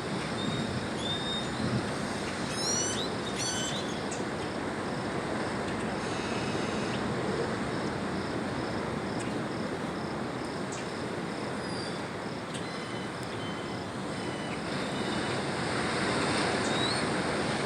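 Dawn outdoor ambience: a steady rushing wash of noise with birds chirping over it, including a quick run of chirps about three seconds in and scattered single whistles after.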